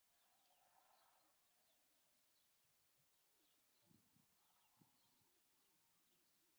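Near silence with faint birdsong: many short, quick chirps, and a couple of soft low thumps about four and five seconds in.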